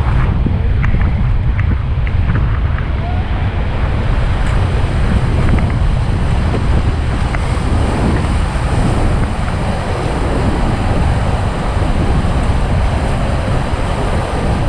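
River whitewater rushing and splashing loudly around a raft running a rapid, with wind buffeting the microphone.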